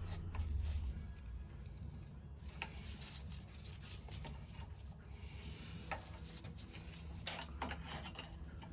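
Scattered light metallic clinks of hand tools being handled and tried for size on a worn, badly fitting bolt head, over a low steady hum.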